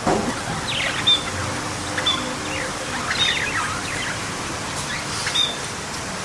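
Small songbirds chirping and twittering: short, high repeated notes and quick falling trills, several birds calling at once over a steady background hiss.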